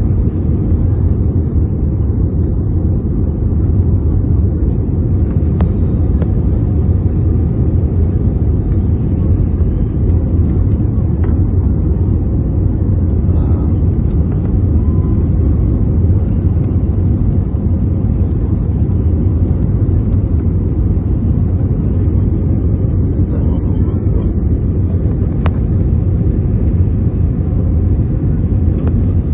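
Airliner cabin noise heard from inside the cabin during the landing approach: a steady, loud low rumble of the jet engines and airflow.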